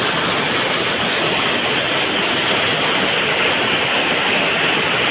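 Steady roar of a flooded mountain stream (gadhera) rushing downhill after heavy rain, a dense, even rush of water.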